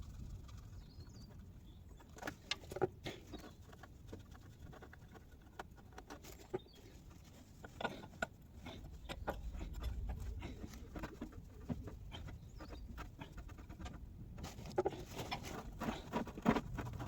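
Scattered light clicks and taps of hand tools on metal, irregular and spaced out, over a faint low rumble.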